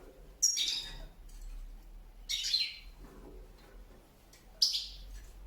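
Pet birds calling: three loud, sharp calls roughly two seconds apart, each falling in pitch.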